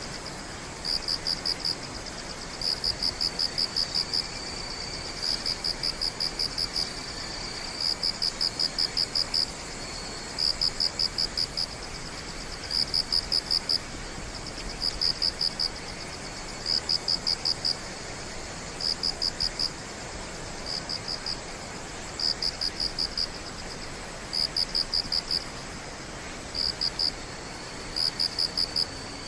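Crickets chirping: one loud nearby cricket sings high, rapid pulse trains about a second long, roughly every two seconds. Behind it is a fainter, steady high trill from other insects and a soft hiss.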